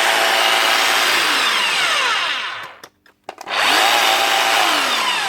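Makita HR3540C rotary hammer running on a test after its motor rebuild with a new armature and brushes. It stops about two and a half seconds in, and after about half a second of near silence it starts up again.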